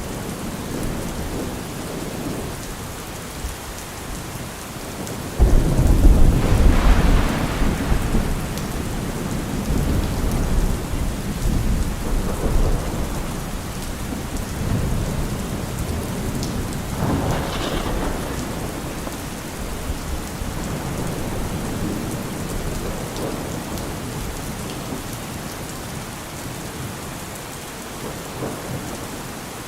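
Heavy rain drumming steadily on a car roof, with a sudden clap of thunder about five seconds in that rumbles on for several seconds, and a second, fainter roll of thunder with a crack about two-thirds of the way through.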